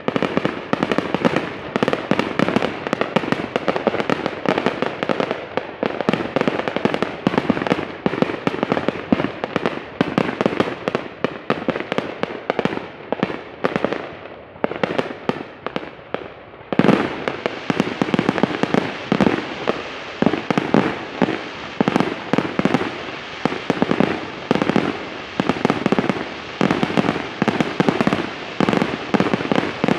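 Fireworks display: a dense, continuous barrage of rapid bangs and crackles. It eases a little about halfway through, then comes back louder with a sudden burst.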